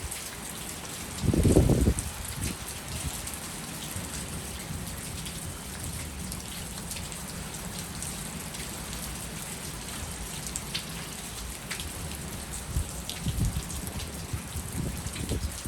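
Heavy rain falling and splashing during a thunderstorm, with individual drops ticking sharply. A short, loud low thump about a second and a half in, and a few softer low rumbles near the end.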